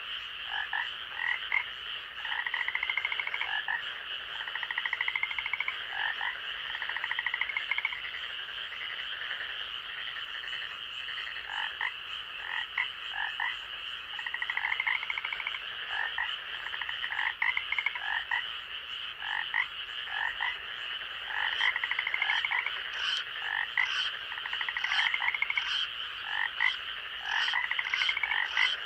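Night chorus of frogs calling: many short, repeated croaks and pulsed trills overlapping, over a steady high-pitched drone, with sharper high chirps joining in the last third.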